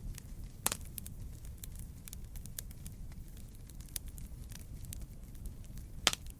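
Wood campfire burning and crackling: scattered sharp pops over a low steady rumble, with two louder pops, one just under a second in and one near the end.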